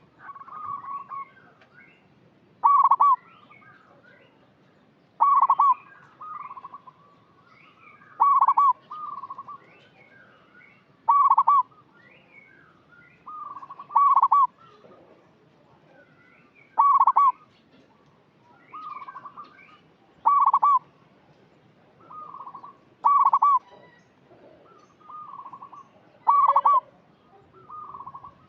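Zebra dove (perkutut) cooing: a short, loud call repeats about every three seconds, with softer cooing phrases between the calls.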